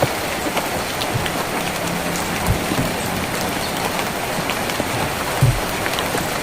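Steady rain falling on a tin roof, a constant hiss dotted with individual drop taps. Two heavier drops land as low thuds, about two and a half and five and a half seconds in.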